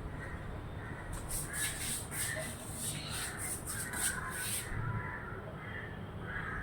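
A crow cawing over and over, harsh calls about twice a second. For the middle three and a half seconds a run of very high-pitched chirps sounds over it.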